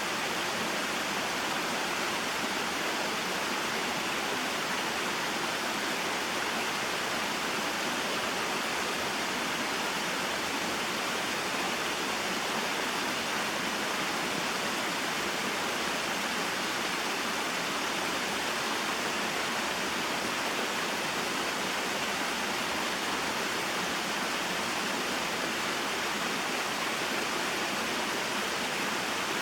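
Small mountain waterfall and stream: a steady, even rush of falling and flowing water.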